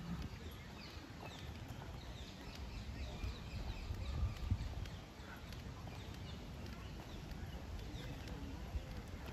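Birds chirping in many short, quick calls over a steady low outdoor rumble.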